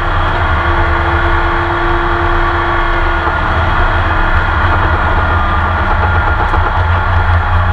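Porsche 911 RSR race car's flat-six engine running at fairly steady revs, heard from the onboard camera. About a second in, a thin steady whine joins it for a couple of seconds.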